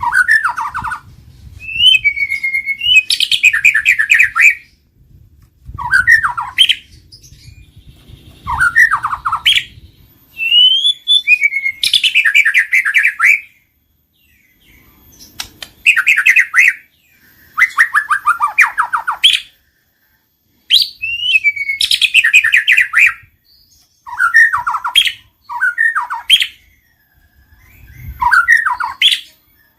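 White-rumped shama (murai batu) singing loudly: about ten phrases of clear whistled glides and rapid trills, each one to three seconds long, with short pauses between them.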